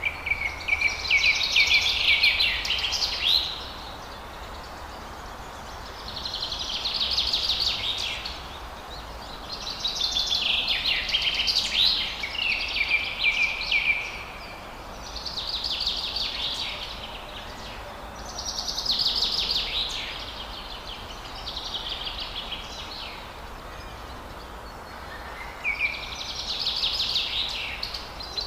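Forest songbird singing about six phrases of rapid, high-pitched notes, each lasting two to four seconds with short pauses between, over steady background noise.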